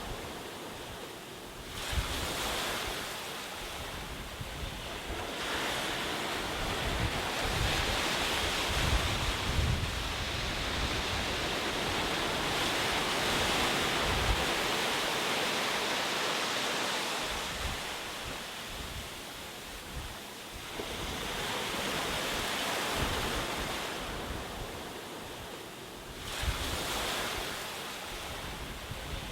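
Ocean waves breaking and washing on the shore, the surf swelling and ebbing every few seconds, with low rumbling gusts that sound like wind on the microphone.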